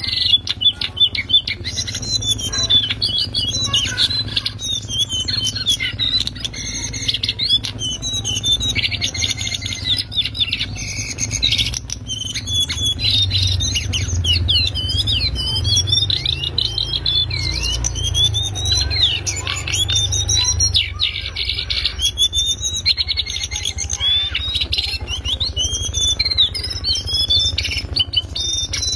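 Cingcoang coklat (lesser shortwing) singing a loud, rapid twittering song of quick rising and falling whistled notes and trills with hardly a pause. A steady low hum runs underneath.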